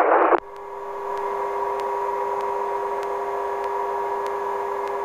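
Helicopter's steady turbine and gearbox whine, several fixed tones heard over the intercom, with faint regular ticks about twice a second. A radio voice transmission cuts off about half a second in.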